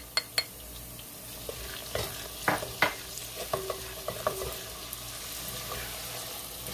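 Sliced onions and ginger-garlic paste sizzling in oil in a clay handi, with a steady hiss throughout. A wooden spoon stirs them, clicking and knocking against the clay pot several times; the loudest knocks come about two and a half seconds in.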